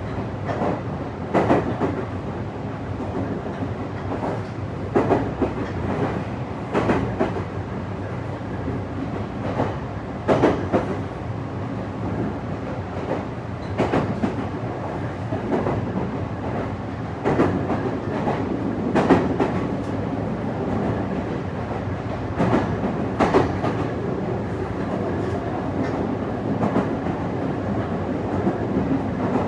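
Meitetsu 3500 series electric train running, heard from inside the passenger car: a steady rumble of wheels on rail with sharp, irregularly spaced clacks as the wheels cross rail joints.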